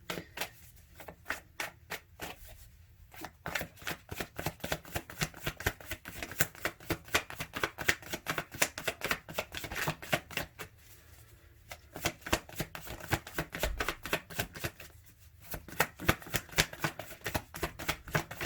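A deck of tarot cards being shuffled by hand: runs of rapid card flicks and riffles, pausing briefly a few times.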